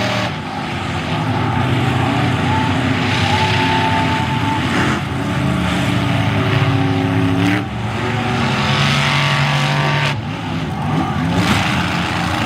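Monster truck engines running hard and revving, their pitch rising and falling with the throttle. The sound changes abruptly about every two to three seconds.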